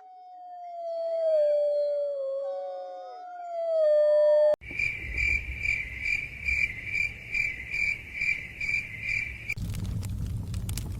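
Wolves howling, several long, slowly falling howls overlapping. About four and a half seconds in it cuts abruptly to crickets chirping in an even rhythm of about three chirps a second. Near the end it cuts again to a low rumble with crackles.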